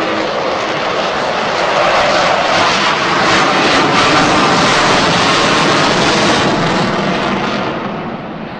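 Avro Vulcan's four Rolls-Royce Bristol Olympus jet engines, a loud rushing jet noise that swells about two seconds in and fades near the end as the bomber passes.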